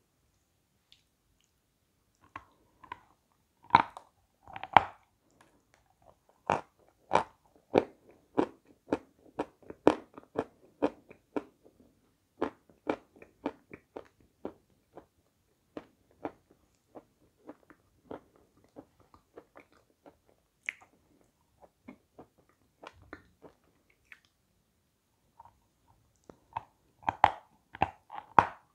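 Close-miked biting and crunchy chewing of lumps of natural chalk. Two loud bites come about 4 s in, then steady crunching about twice a second that thins out, and another cluster of loud crunching bites near the end.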